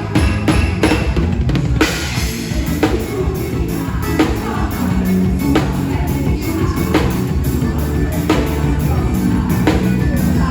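Band music with a drum kit, bass drum and snare keeping a steady beat under sustained instrument notes.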